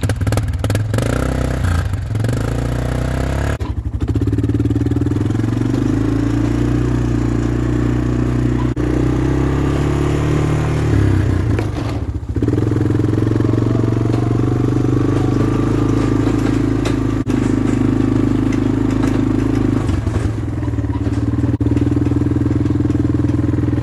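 Engine of a vehicle running steadily under way, its note shifting briefly about 4, 12 and 20 seconds in.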